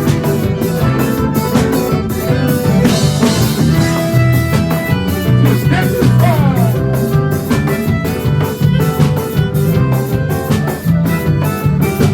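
Instrumental break in a band's song: guitar and other instruments over a drum kit keeping a steady beat.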